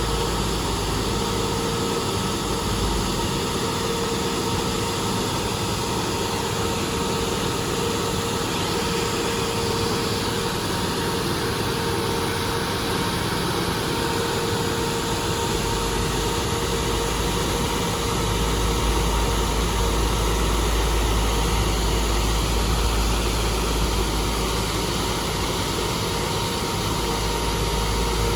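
Heavy paving equipment engines running steadily, with a constant whine over the engine noise; the low rumble grows heavier about two-thirds of the way through.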